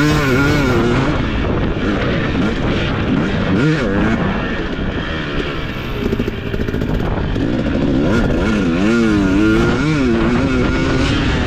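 Husqvarna TC250 motocross bike engine revving hard, its pitch swinging up and down again and again as the throttle is opened and shut around the track.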